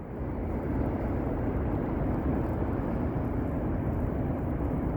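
Steady rushing of water pouring over Niagara Falls. The falls are partly frozen, but water is still running over them.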